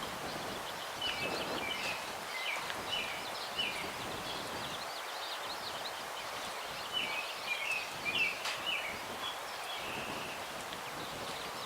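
Small songbirds chirping and twittering in quick repeated short notes, over a steady rustle of breeze through the branches of an old windbreak tree line.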